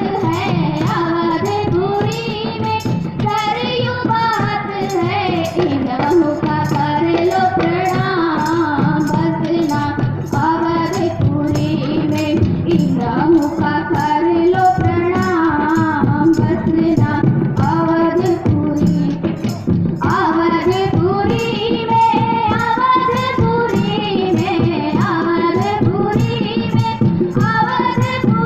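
A song sung by voices, likely young ones, over a steady percussion beat at about two to three strokes a second.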